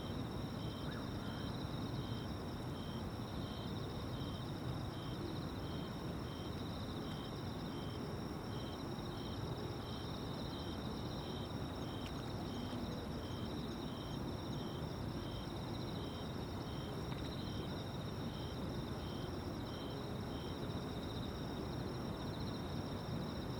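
Insects singing at dusk: a steady high trill from several insects, and one insect giving a chirp about twice a second that stops near the end. A steady low rumble runs underneath.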